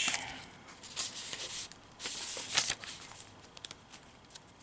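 Paper pages of a handmade junk journal rustling and crinkling as they are turned and handled, in a few short swishes about a second apart with light taps between, fading toward the end.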